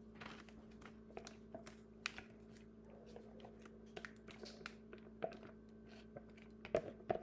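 Faint, irregular taps, clicks and soft scrapes of a utensil against a pan as chocolate pudding is poured and spread into an even layer, over a steady low hum.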